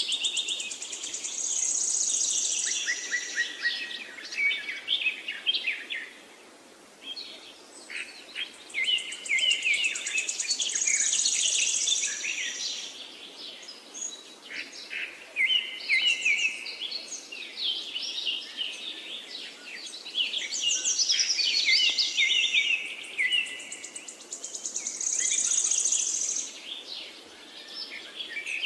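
Parakeets chirping and chattering in quick runs of high calls, in bouts a few seconds long with brief lulls between them.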